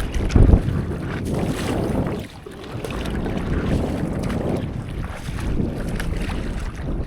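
Wind buffeting the microphone over sea water sloshing and lapping around a stand-up paddleboard, gusting hardest in the first half second and easing briefly a little over two seconds in.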